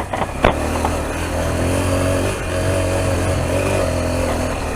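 Honda CRF dirt bike's single-cylinder four-stroke engine pulling hard under load up a steep dirt hill climb, its pitch holding fairly even. A short sharp knock about half a second in.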